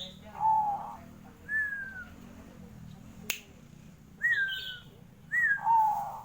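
Zebra dove (perkutut) cooing: about five short whistled coos, some lower and some higher with a falling end, the last two close together. A single sharp click comes a little past halfway.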